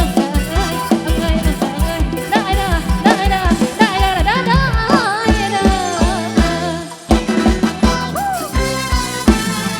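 Loud Isan mor lam–style band music from a rot hae sound truck, with a pounding kick-drum beat under a lead melody that bends in pitch; the music dips briefly about seven seconds in.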